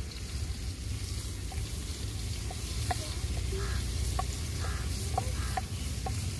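Food sizzling and frying in a cooking pan while it is stirred, with a few short clicks scattered through.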